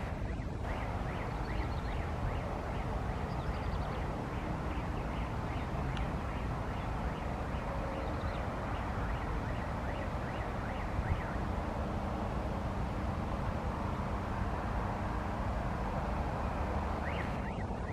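Steady low roar of a jet airliner's turbofan engines, the Airbus A300B4, with short bird chirps over it.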